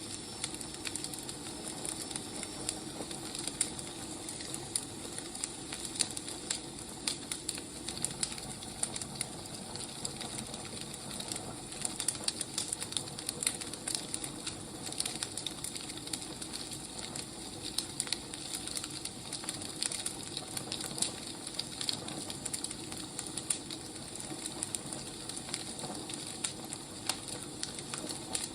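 Firewood burning with a steady soft hiss and frequent irregular crackles and pops.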